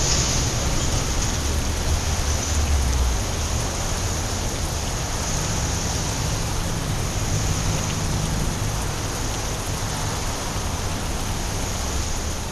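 Steady rain falling on a wet city street, an even hiss, with a low rumble in the first few seconds.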